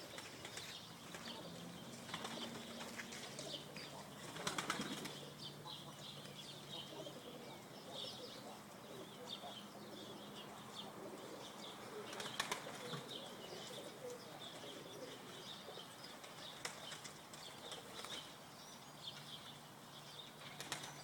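Pigeons flapping their wings in short flurries, loudest about four seconds in and again near the middle, over a constant background of small chirps and soft cooing.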